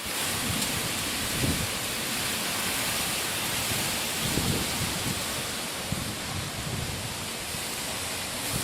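Strong, gusty wind blowing over the microphone: a steady hiss with low buffeting puffs now and then.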